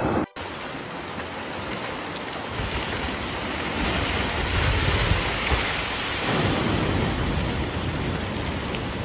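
Rushing river water, a steady hiss-like rush with a deep rumble that swells a couple of seconds in and eases again after about six seconds. A sharp cut comes just after the start.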